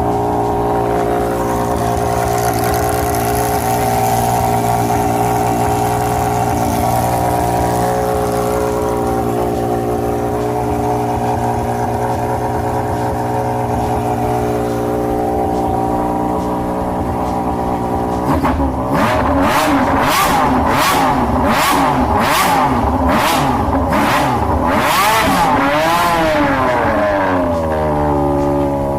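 Engine exhaust idling steadily. About two-thirds of the way in, the throttle is blipped in a rapid series of sharp revs, ending in a longer rev that falls back to idle near the end.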